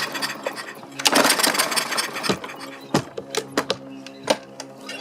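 Push mower's recoil starter rope pulled once about a second in, spinning the engine over without it catching. This is followed by a few sharp knocks and clunks from the mower's engine, which is loose on a deck whose mounting bolts have fallen out.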